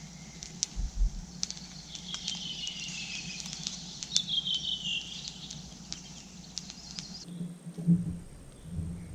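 Campfire crackling with scattered sharp pops, while a bird whistles two descending phrases about two and four seconds in. The background changes abruptly about seven seconds in, and the crackle and birdsong stop.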